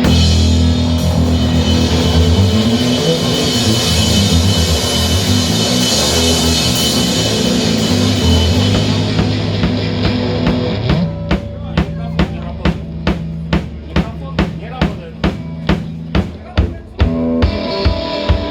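Rock band playing: sustained bass and guitar notes over drums, then about eleven seconds in the sound thins to a steady drum-kit beat of about two hits a second, with held notes coming back in near the end.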